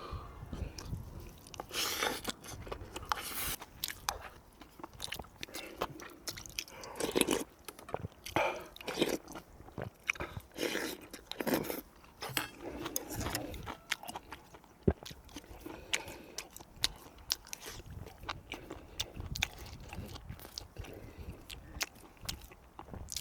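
Close-up mukbang eating: a man chewing and biting food, with irregular wet mouth clicks and smacks.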